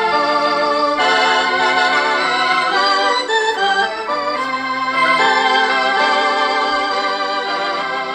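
Ballpark organ music: an electric organ playing a melody over held chords, the notes wavering with vibrato.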